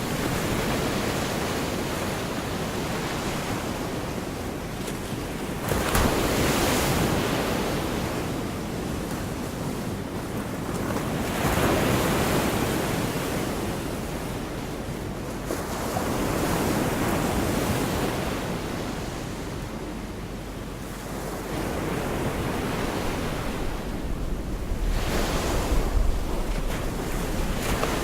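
Gulf of Mexico surf on a beach: small waves breaking and washing in, swelling about every five or six seconds. Wind rumbles on the microphone, strongest near the end.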